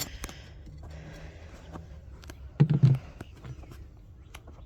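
Scattered light clicks and knocks from handling wooden beehive frames, with one short, louder low sound a little past halfway.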